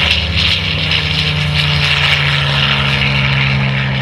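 P-51 Mustang's Packard Merlin V12 engine and propeller droning steadily as the fighter flies overhead.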